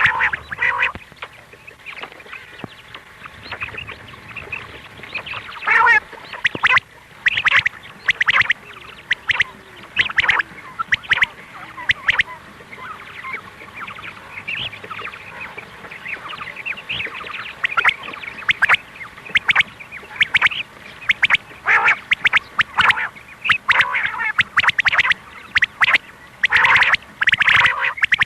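Quail calling: many short, sharp calls in quick, irregular succession, overlapping and coming in louder clusters. It is a recorded quail call of the kind played to lure quail.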